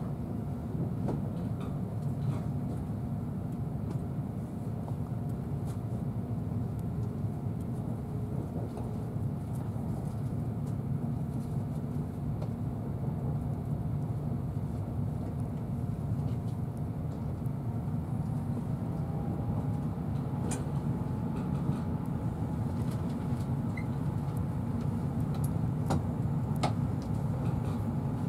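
Inside a Mark 3 passenger coach of an InterCity 125 (Class 43 HST) train running on the line: a steady low rumble of the wheels on the rails. A faint tone rises a little about two-thirds of the way through, a few sharp clicks follow, and the noise grows slightly louder toward the end.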